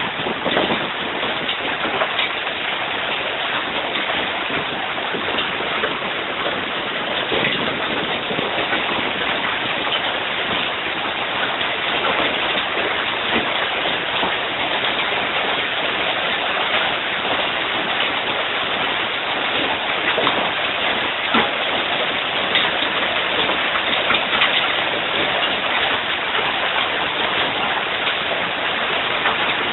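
Hailstones of about quarter size pelting down non-stop: a dense, steady clatter of countless impacts with individual sharp hits standing out. The hail falls without rain.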